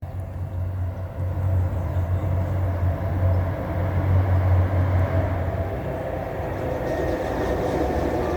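Rail inspection motor car running along the track, a steady low engine hum with rail running noise that grows near the end.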